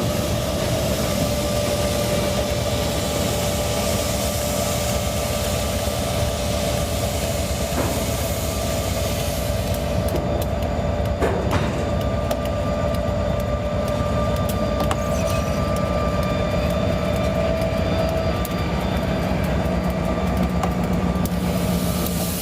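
EMD diesel-electric locomotives (two SD40-2s and an SD9) idling together with a steady hum and drone, and a couple of brief sharp knocks.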